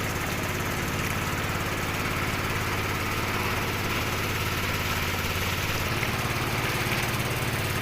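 Small engine running steadily with an even fast chug, its pitch shifting slightly about six seconds in.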